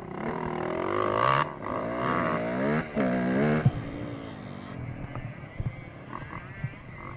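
Dirt bike engine revving hard, its pitch rising and falling several times. After about four seconds it fades to a quieter running sound with a few knocks.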